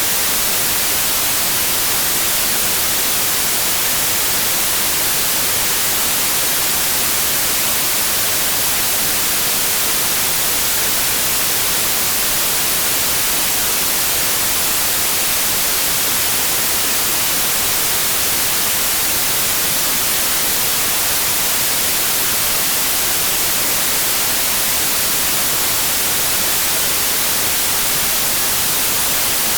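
Steady white noise: an even hiss, strongest in the highest pitches, that never changes.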